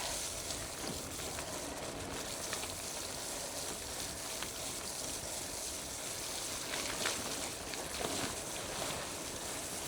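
Gravel bike tyres rolling over a wet, mucky trail: a steady hiss with a couple of faint knocks about seven and eight seconds in.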